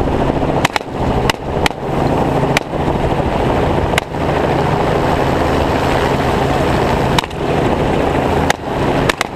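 Steady helicopter engine and rotor noise in flight, with about eight rifle shots fired at irregular intervals, several close together in the first few seconds and a few more spaced out near the end.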